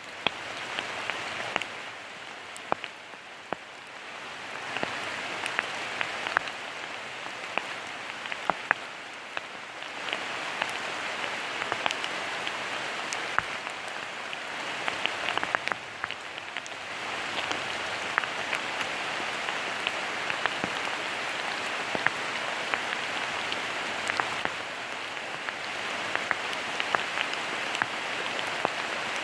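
Steady rain falling, a constant patter with frequent sharp ticks of single drops striking close by. It grows a little heavier a few seconds in and again past the middle.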